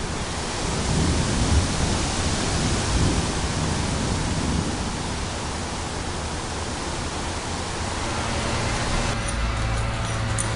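Thunder rumbling on under a steady rushing hiss. It cuts off suddenly about nine seconds in, leaving a low steady hum.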